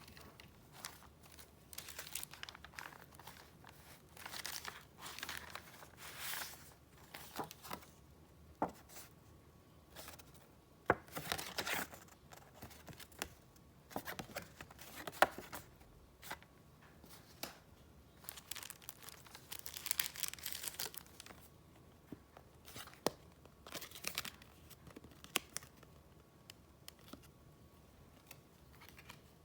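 Paper and crinkly wrapping being handled: irregular bursts of rustling and crinkling, with a few sharp taps or clicks, the loudest about 11 and 15 seconds in.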